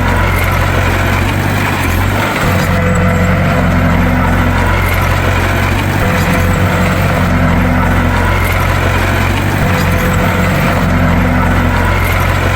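Bulldozer's diesel engine running steadily, with a cycle that repeats every few seconds.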